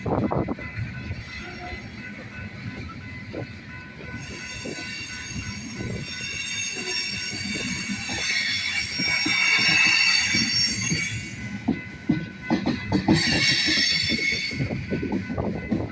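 Train cars rolling slowly past at close range, the wheels knocking and clattering over the rails, with a high metallic wheel squeal that sets in about four seconds in, swells and fades by about eleven seconds, and comes back briefly near the end.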